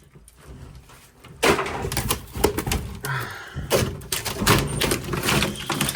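Knocking, clattering and scraping of pieces of wood and sheet metal being handled and pulled out, starting about a second and a half in.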